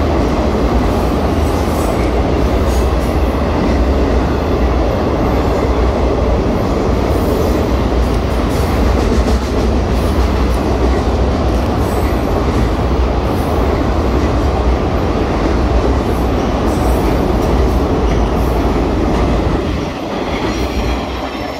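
Freight cars rolling across a railway trestle overhead: a steady heavy rumble and rattle of wheels on rail, with occasional faint wheel squeals. The sound falls off near the end as the last cars pass.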